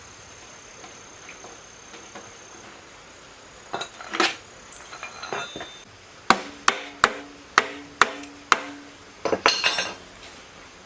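Hammer striking metal: a couple of clinks, then six sharp blows about two a second, each with a short ring. A quick clatter of metal follows near the end. Faint insect buzz sits underneath at first.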